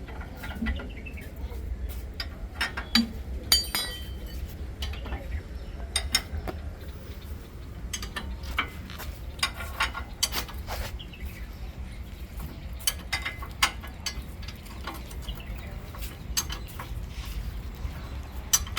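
Scattered sharp metallic clinks and clicks of tools and bolts being worked while a bumper is fitted to a tractor, over a steady low rumble.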